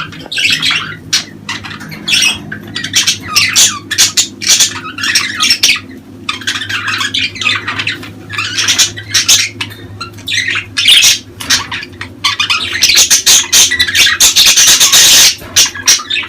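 Budgerigars chattering and squawking in a dense run of short, harsh calls, thickest about thirteen seconds in, over a steady low hum.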